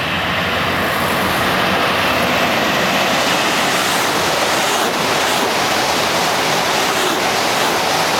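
CRH2C high-speed electric multiple unit passing through a station at speed without stopping: a loud, steady rushing noise that builds slightly in the first second.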